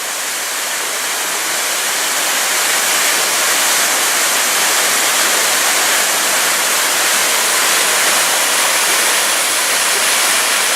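Water falling down a partly frozen waterfall: a steady, loud rushing hiss that swells slightly over the first few seconds.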